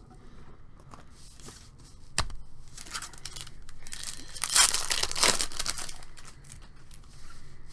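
Trading cards and their foil pack wrapper being handled: a sharp click about two seconds in, then a burst of crinkling and rasping between about four and five and a half seconds.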